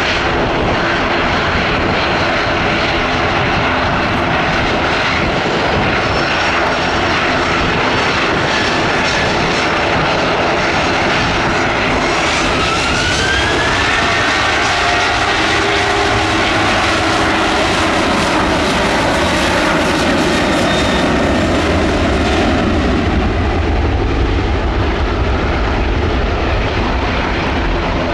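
Boeing 737 jet airliner's twin turbofan engines at takeoff thrust as it rolls and lifts off, a loud steady roar. A whine rises in pitch about halfway through, and a deeper rumble builds near the end.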